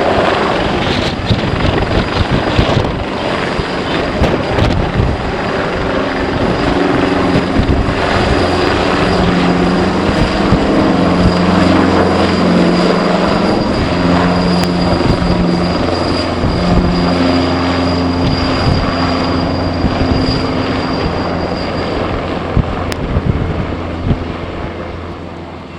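Aircraft engines running loud and steady, with low droning hums and a thin high whine that stops near the end, over wind buffeting the microphone.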